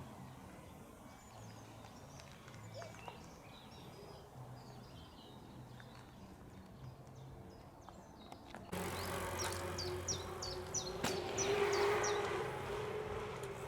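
Outdoor ambience with faint, scattered bird chirps and a low rumble. About nine seconds in, the sound steps up suddenly: over a steady hum, a bird sings a quick run of about eight high, down-slurred notes, with a single sharp click in the middle.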